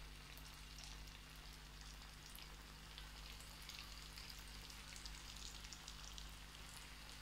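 Threaded chicken rolls frying in oil on low heat: a faint, steady sizzle with light crackles.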